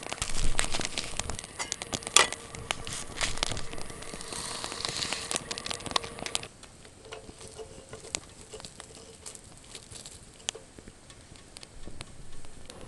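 Small wood fire crackling and popping in a titanium Firebox folding stove, sharp pops busiest in the first half and thinning out about six and a half seconds in.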